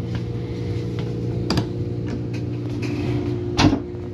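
Steady running hum inside a Renfe high-speed train in motion, with a light click about a second and a half in and a louder sharp knock near the end.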